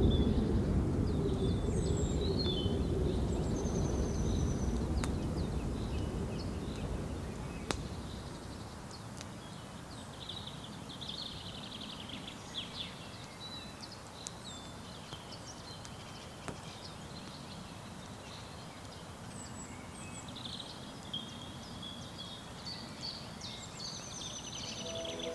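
Small birds singing, with scattered chirps and quick trills over a faint outdoor background. A low rumble fades away over the first several seconds.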